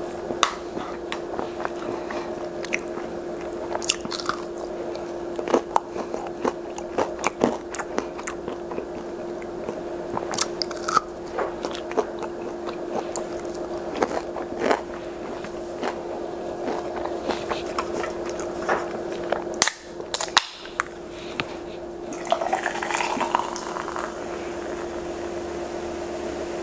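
A person chewing and biting breaded fish sticks and peas close to a clip-on microphone, with many short sharp mouth clicks, over a steady low hum.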